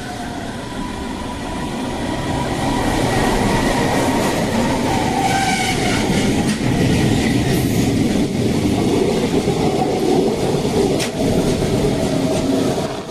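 Freight train passing by, its rolling noise building over the first few seconds and then holding loud and steady.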